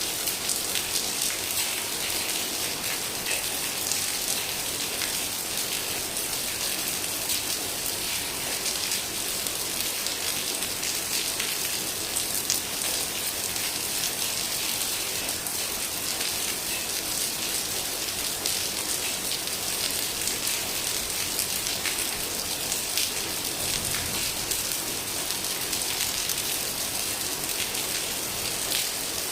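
Heavy rain falling steadily: a dense, even hiss of drops with many small individual drop ticks.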